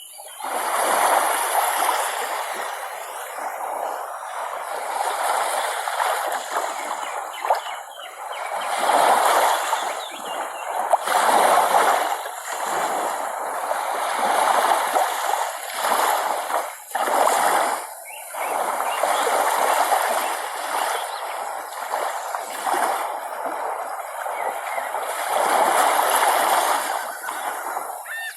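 Water splashing and washing, swelling and easing every few seconds.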